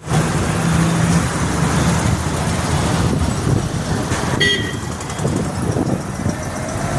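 Road traffic noise with a vehicle engine running, and a brief horn toot about four and a half seconds in.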